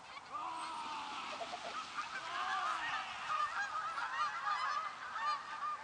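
A flock of Canada geese honking, many overlapping calls that grow denser about two seconds in, as the flock is chased and flushed.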